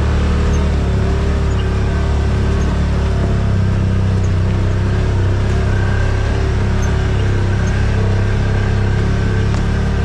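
Yamaha RMAX side-by-side's engine running at a steady speed, a constant low drone heard from on board while driving.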